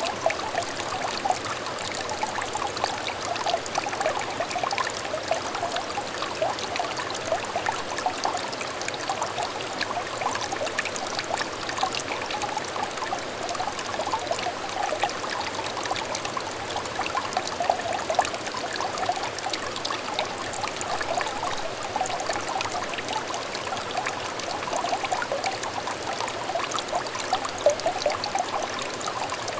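Shallow stream water trickling and babbling over stones, a steady stream of small gurgles and splashes.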